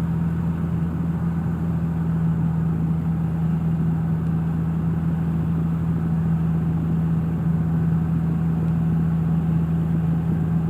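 Cessna 172's piston engine and propeller droning steadily, heard inside the cockpit.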